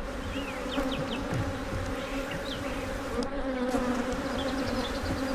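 Dense buzzing of many honeybees around an open hive, a steady drone with a few individual bees zipping close past. The bees are agitated and defensive.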